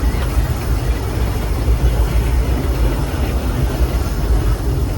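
Steady low rumble of a steam train rolling along the track, heard from aboard one of its passenger cars.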